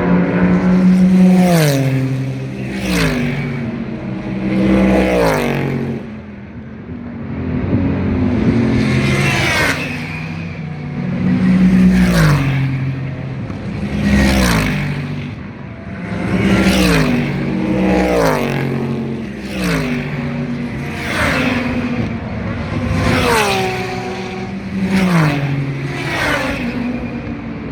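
Super GT race cars passing one after another at close range, about a dozen in all, each engine note falling in pitch in quick steps as the car downshifts under braking.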